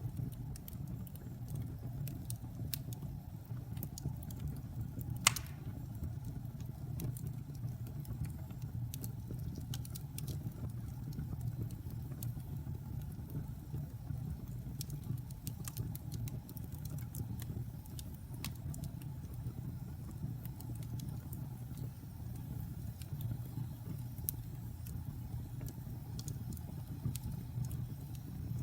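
Wood fire burning in a fireplace: a steady low rumble of flames with scattered small crackles and one louder pop about five seconds in.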